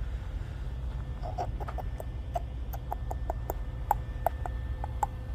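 A run of irregular light clicks and ticks, about fifteen over three and a half seconds, starting about a second in, over a steady low rumble.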